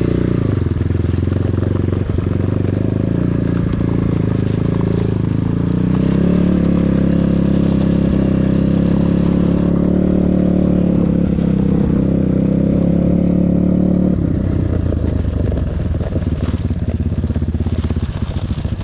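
Enduro motorcycle engine running steadily. Its note climbs just after the start, holds higher until about fourteen seconds in, then drops back to a lower, near-idle running.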